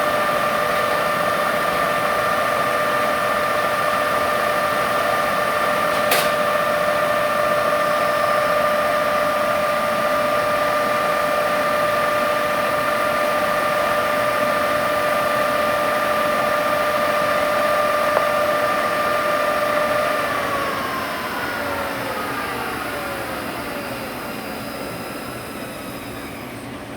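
Eaton Fuller FSO-6406A truck transmission spinning on a test dyno with a steady gear whine, with one sharp click a few seconds in. About twenty seconds in it winds down, the whine falling in pitch and fading.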